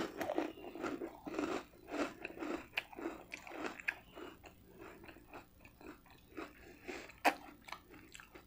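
Close-miked chewing of crunchy, very toasted garlic bread: irregular crisp crunches and wet mouth sounds, thinning out over the seconds, with one sharper click about seven seconds in.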